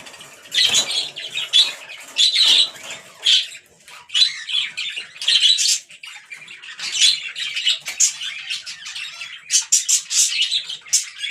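Small caged pet birds calling: a stream of short, sharp squawks and chirps, coming thicker and faster near the end.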